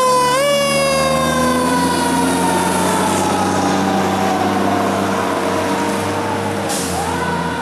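Fire truck's Federal Q mechanical siren winding up briefly at the start, then coasting slowly down in pitch, and winding up again near the end, over the truck's engine running. A short hiss comes just before the second wind-up.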